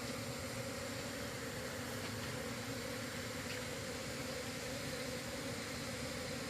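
Steady buzzing of a mass of honeybees from an opened colony.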